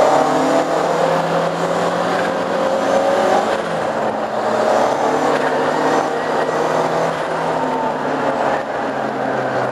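Lancia Delta engine heard from inside the car, running at a steady pace on a reconnaissance drive, with its note dipping and picking up again about three and a half seconds in, over constant road noise.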